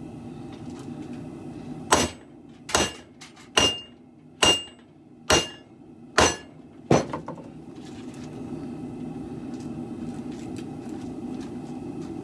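Seven hammer blows on a steel broadsword blade, about one a second, several leaving a short metallic ring, over a steady low hum. The blows are the hammering used to straighten a twist in the blade.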